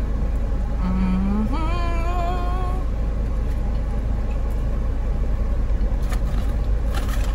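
Steady low rumble of a car idling, heard from inside the cabin. About a second in, a short hummed "mmm" rises in pitch as she eats.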